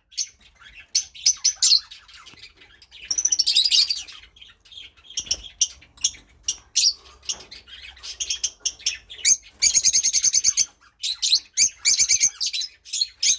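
Lovebirds chirping and chattering in quick, high-pitched runs. The loudest bursts come about three seconds in and again near ten seconds. The females are calling excitedly at a newly introduced male.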